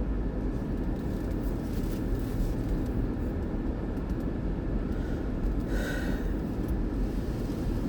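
Vehicle engine idling with a steady low rumble, with a short higher sound about six seconds in.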